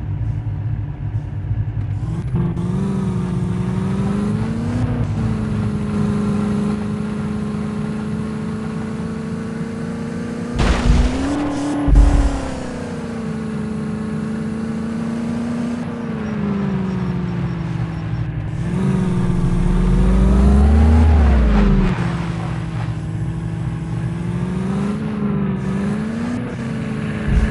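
HMT tractor's diesel engine running, its revs rising and falling again and again, with two sharp knocks about halfway through.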